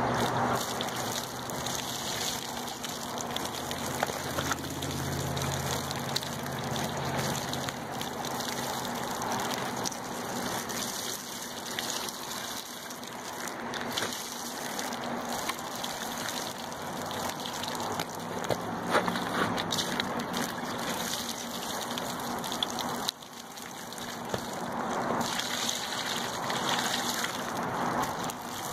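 Hot water being poured over a frozen gas pressure regulator on a rooftop heating unit, splashing and running off, to thaw the ice that is stopping the gas flow.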